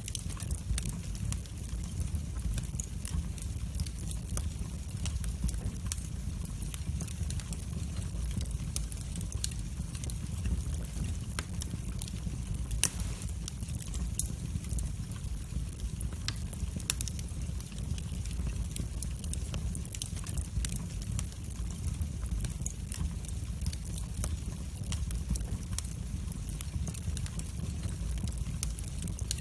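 Wood fire burning in a fireplace: a steady low rumble of flames with frequent sharp crackles and pops scattered irregularly, one pop louder than the rest near the middle.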